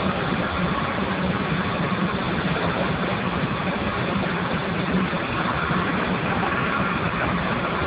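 Steam boiler running: a steady rushing noise with a low hum underneath, unchanging throughout.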